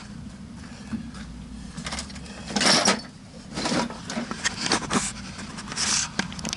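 Hands working on trailer wiring and parts: a series of short scraping and rustling handling noises, the longest and loudest about two and a half seconds in.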